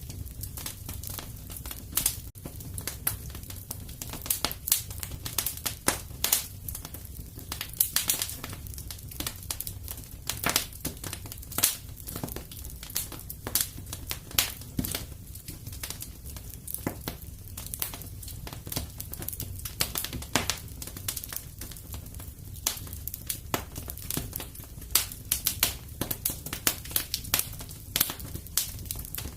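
Wood fire crackling in a fireplace: frequent sharp pops and snaps over a low, steady rumble of the flames.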